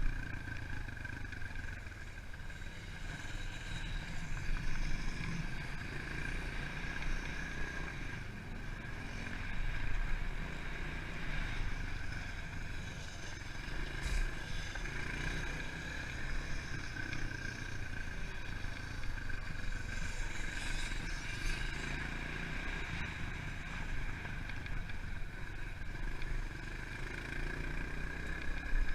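Pit bike's small single-cylinder four-stroke engine running as it is ridden around a motocross track, rising and falling with the throttle every few seconds.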